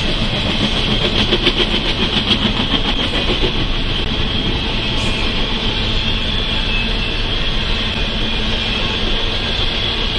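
Intermodal freight train of trailers on flatcars rolling past with steady wheel-on-rail noise. There is a quick run of regular wheel clicks over the rail joints about a second in.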